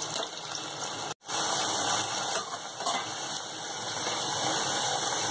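Pieces of besan gatte (gram-flour dumplings) sizzling steadily as they fry in hot oil in a kadhai, with a spatula stirring them. The sound cuts out for a moment about a second in.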